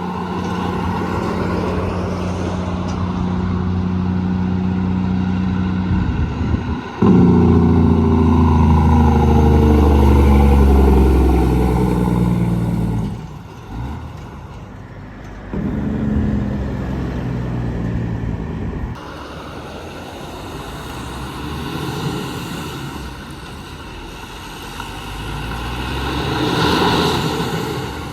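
Heavy trucks passing on the road, their engines running. About seven seconds in, a loud one goes by, its engine pitch dropping as it passes; a smaller pass follows a few seconds later.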